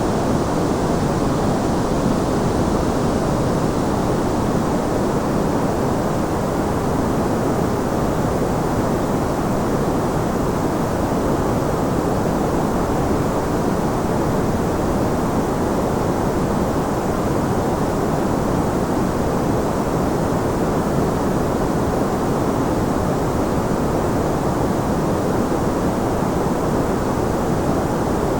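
Steady, unchanging white noise for sleep, weighted toward the low and middle range so it sounds like a soft, deep rush rather than a bright hiss.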